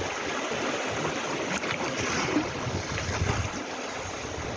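Sea waves washing onto the shore in a steady surge, with wind gusting on the microphone.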